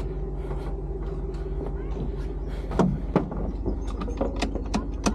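Truck engine and road noise as a steady low drone, with a few sharp clicks or knocks about three seconds in and again near the end.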